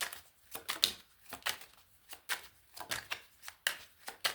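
Tarot cards being shuffled by hand: a run of irregular short slaps and rustles of the cards, two or three a second.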